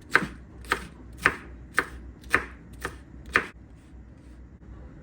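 Knife chopping bell pepper: seven sharp chops, about two a second, stopping about three and a half seconds in.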